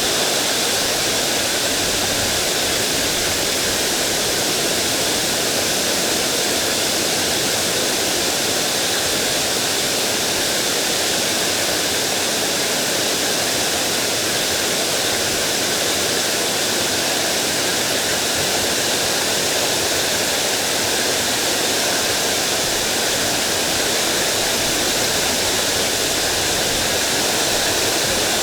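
Mountain stream water rushing steadily over rocks, a continuous even hiss.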